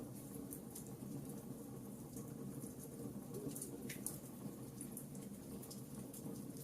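Campfire crackling: scattered sharp pops and snaps at irregular intervals over a steady low rumble.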